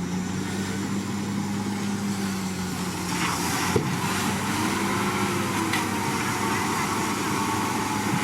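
Heavy diesel engine of a Komatsu D61PX bulldozer running steadily at working speed, with one sharp clank about four seconds in.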